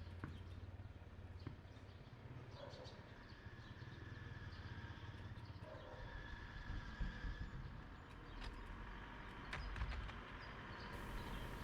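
Faint outdoor ambience: a low steady rumble with a few light knocks and clicks.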